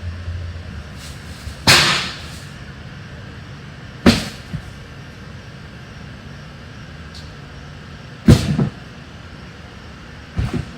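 Junk and scrap metal being thrown into a truck bed: four loud bangs a few seconds apart, the one about eight seconds in the loudest, over a low steady hum.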